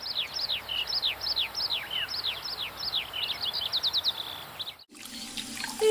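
Birdsong: a quick run of short, high, downward-sweeping chirps, several a second, that cuts off abruptly near the end, giving way to a fainter hiss.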